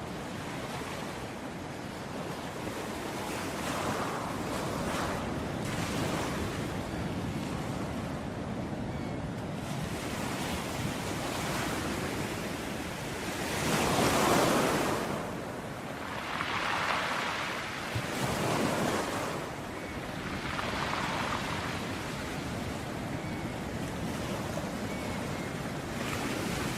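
Ocean waves breaking and washing on a beach, a steady surf hiss with swells as waves come in, the loudest about halfway through and several smaller ones after it.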